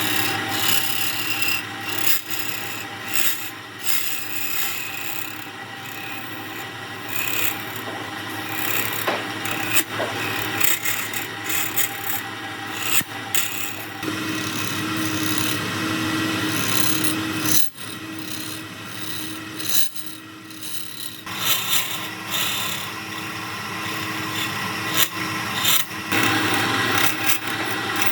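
Wood lathe running, with a tool working against the spinning wood-and-epoxy blank in a dense, uneven scraping noise over a steady motor hum that swells and dips from moment to moment.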